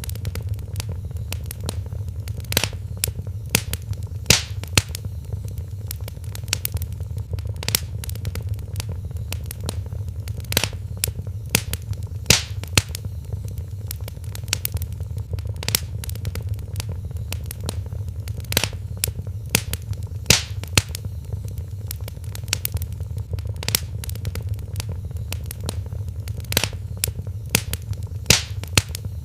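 Wood fire burning in a fireplace: irregular crackles and sharp pops, a few louder ones scattered throughout, over a steady low rumble.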